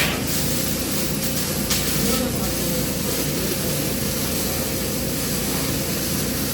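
Steady hiss and hum of a TIG welding arc on carbon steel pipe, with a couple of brief clicks in the first two seconds.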